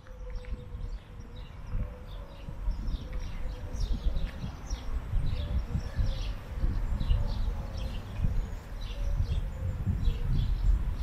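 Small birds chirping many times in short, quick notes over a low rumble, with a faint steady hum underneath for most of the time.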